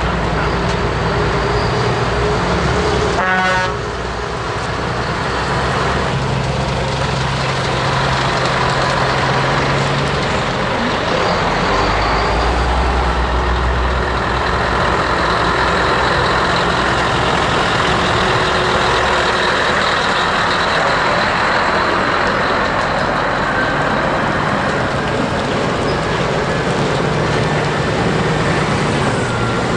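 Heavy trucks' diesel engines running as they pass at low speed, with a short horn toot about three seconds in.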